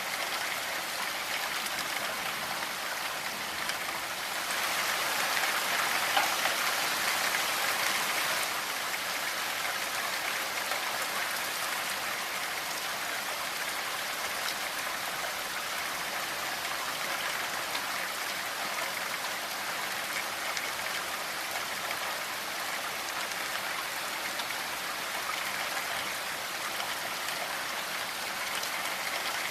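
Steady rainfall, an even hiss of drops on a surface, swelling a little for a few seconds near the start before settling back.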